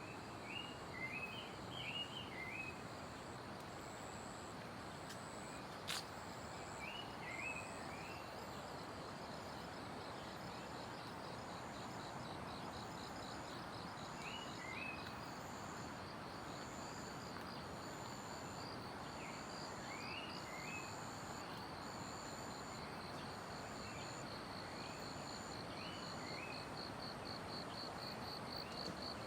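Forest ambience: a steady rush of a mountain stream, with a bird giving short groups of quick rising chirps every few seconds. A single sharp click comes about six seconds in. After it an insect's rapid, even, high trill sets in and grows louder toward the end, and a high buzzing note repeats in regular short dashes.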